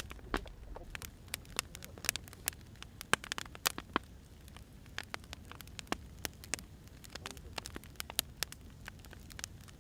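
Burning firewood crackling: irregular sharp pops and snaps over the low, steady rumble of the fire.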